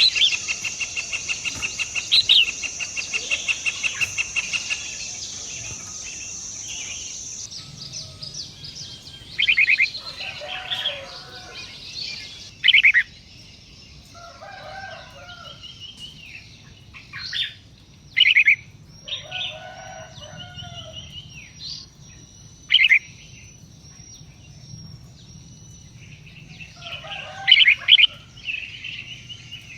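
Birds calling: short, sharp, loud calls every few seconds, some with lower chattering notes, over a high buzz that pulses rapidly for the first few seconds and then holds steady.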